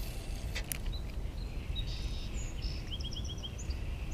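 Small birds chirping over a steady low outdoor rumble, with a quick run of about five short chirps about three seconds in. Two faint clicks come under a second in.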